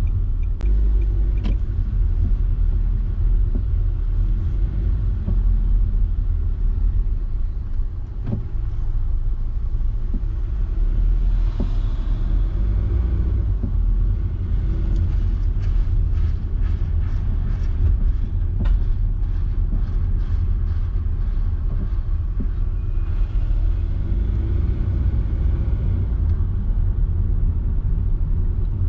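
Car driving along a road: a steady low rumble of engine and tyre noise, with a run of light clicks about halfway through.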